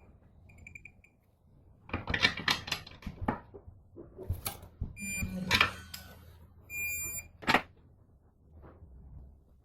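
Short electronic beeps, high-pitched with a buzzy edge, come in three groups, mixed with a run of sharp clicks and clatter of handling noises in the middle.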